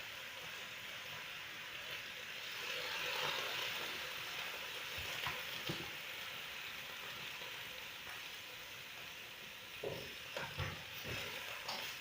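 Food sizzling as it fries in a pan, a steady hiss that swells about three seconds in. A few short knocks come near the middle and again near the end.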